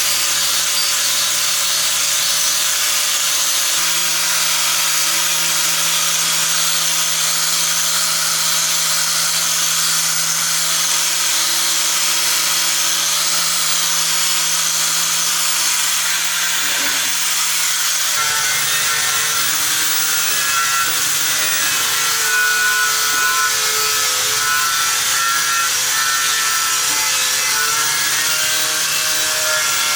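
A power tool running steadily under load, a dense gritty noise whose tone shifts about eighteen seconds in.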